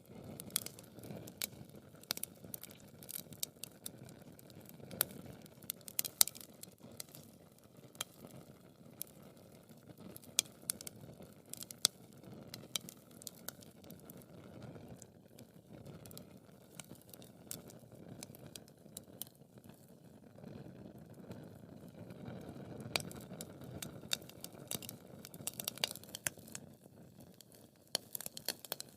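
Wood fire burning in a fireplace, crackling with many irregular sharp pops and snaps over a low, steady rush of flame.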